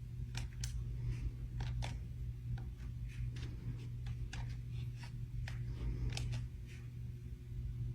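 52-inch Patriot Lighting Crescent ceiling fan running with a steady low motor hum, with a dozen or so light, irregular clicks over it.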